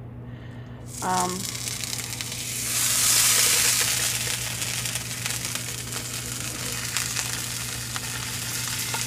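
A spoonful of butter sizzling as it melts in a hot pan. The sizzle starts suddenly about a second in, swells for a couple of seconds, then settles to a steady frying hiss.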